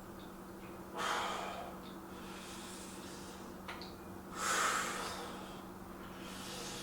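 A man breathing out hard with the effort of lifting a weight: two strong exhalations, about a second and about four and a half seconds in, and a weaker one near the end.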